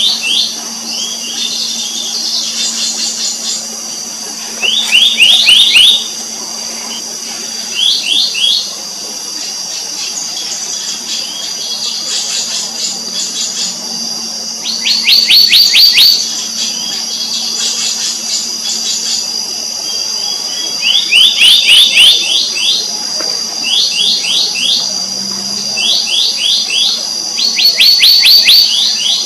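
Black-naped monarch calling: short, quick series of ringing notes, repeated every few seconds, over a steady high insect drone.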